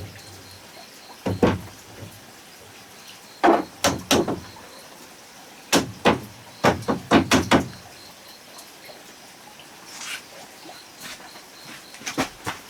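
A series of irregular knocks and thuds: single blows, then quick clusters of three or four, typical of wood being struck or handled.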